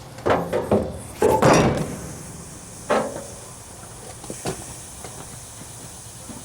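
A handful of knocks and clatters from handling tools and metal parts: several in quick succession in the first two seconds, another about three seconds in and a lighter one later.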